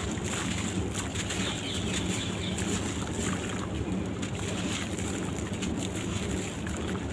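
Sand-cement blocks crumbling: a steady hiss of fine, dense crackles with small clicks scattered all through.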